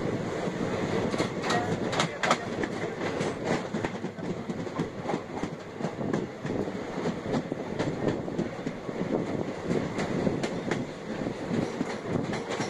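Train running on the rails, heard from aboard the moving coach: a steady rumble of wheels on track, with scattered sharp clicks and knocks as the wheels cross rail joints.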